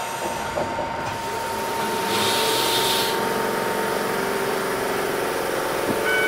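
Enoden 500-series electric train standing almost still, its onboard equipment humming steadily, with a short hiss of air about two seconds in and a brief beep near the end.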